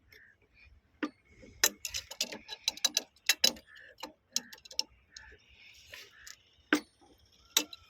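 Irregular sharp metallic clicks and knocks, several in quick runs with short pauses, from hand work on the steel fittings of a railway point machine.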